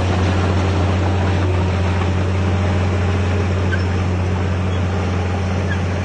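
Heavy diesel engine of earthmoving machinery running steadily, a low drone that holds one pitch throughout.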